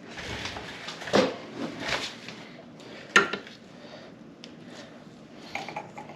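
Metal differential parts clinking and knocking together as they are handled, in several separate knocks, with the sharpest about three seconds in.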